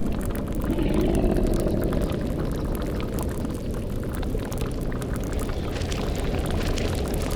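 Sound-effect ambience of a bubbling cauldron and crackling fire over a steady low rumble, with a swelling eerie tone that rises about a second in and fades out by two seconds.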